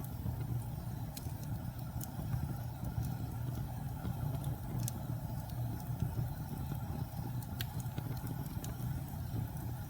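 Fire burning in a fireplace: a steady low rumble of the flames with sharp crackles and pops every second or so.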